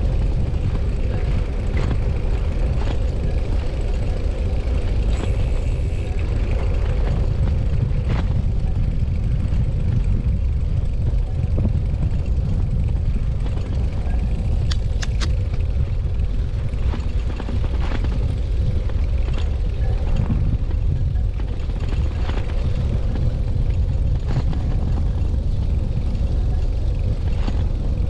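Riding a Brompton folding bicycle: a steady low rumble of wind on the microphone mixed with tyre and road noise, with a faint steady hum and scattered small clicks and rattles.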